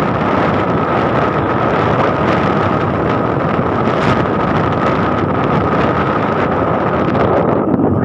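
Wind buffeting the microphone on a moving motorcycle, with the motorcycle's engine running steadily underneath and a constant high whine.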